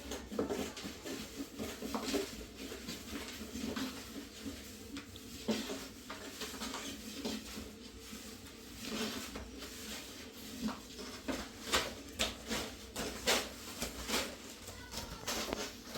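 A series of light clicks and knocks, like objects being handled, sparse at first and coming more often in the second half.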